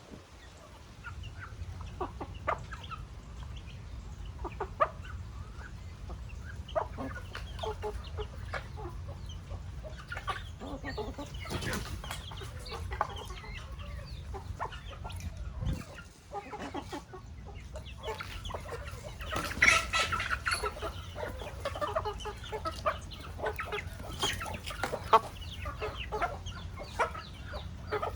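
A flock of chickens clucking, with many short calls scattered throughout and a louder flurry of calls about two-thirds of the way through, over a steady low rumble.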